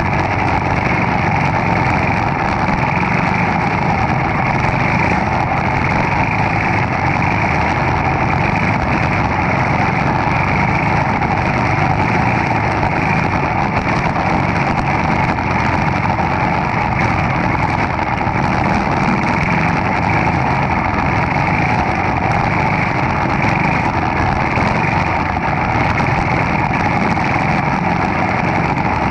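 Racing kart's single-cylinder Briggs & Stratton Animal four-stroke engine running steadily and loudly, heard from an onboard camera.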